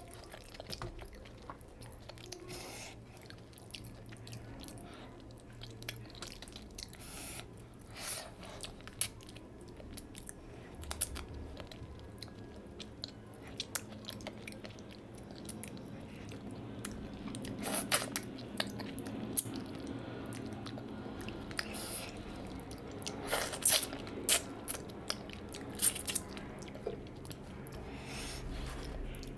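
Close-miked chewing and biting of fish curry with rice, with wet mouth clicks and sharp crunches scattered through, the loudest bites clustered in the second half.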